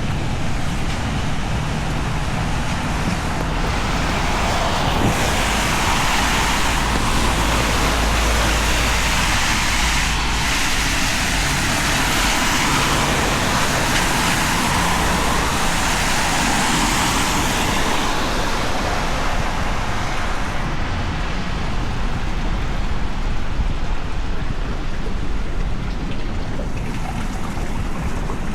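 Heavy rain on a city street with traffic passing on the wet road. The hiss of tyres and spray swells for several seconds in the middle, then eases back to the steady rush of rain.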